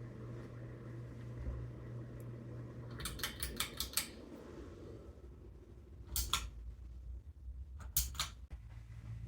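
Ceiling fan motor humming steadily, then a quick run of about six sharp clicks about three seconds in, after which the hum drops out. Two more brief clicks follow later.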